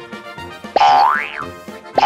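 Cartoon 'boing' jump sound effect: a springy tone that starts sharply about three-quarters of a second in, holds briefly, then slides up and back down; the same boing starts again right at the end.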